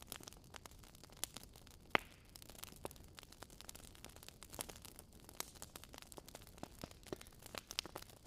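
Wood campfire crackling: irregular sharp pops and snaps over a faint steady hiss, with one louder snap about two seconds in.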